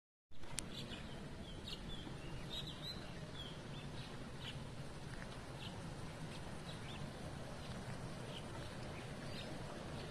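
Short, high bird chirps repeated every second or so, some with quick slides in pitch, over a steady low outdoor rumble. The sound cuts in abruptly with a click just after the start.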